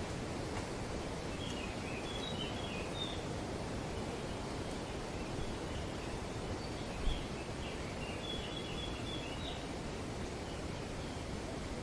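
Wind in the trees as a steady rustling hiss, with two short runs of bird chirps, one a couple of seconds in and one around the middle. A single brief low thump about seven seconds in.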